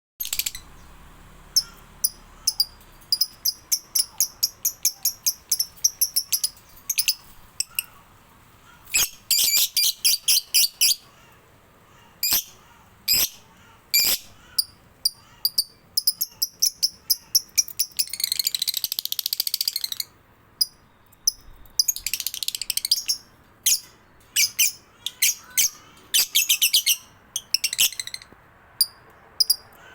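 A songbird singing: rapid, high-pitched chirps in repeated phrases, with a longer buzzy trill about two-thirds of the way through.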